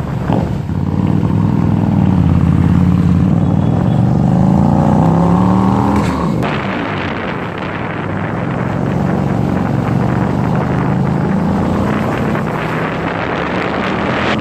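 Hyosung GTR 250's V-twin engine through an SC Project aftermarket exhaust, revving higher as the motorcycle accelerates, with a sharp break and drop in revs about six seconds in like a gear change, then pulling on at lower revs.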